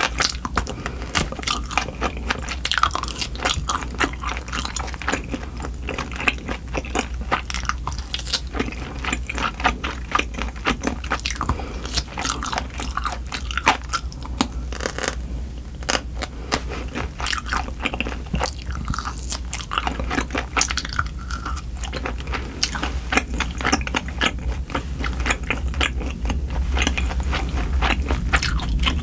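Close-miked chewing and biting as grilled oxtail is gnawed off the bone by hand, with many sharp, crunchy clicks throughout.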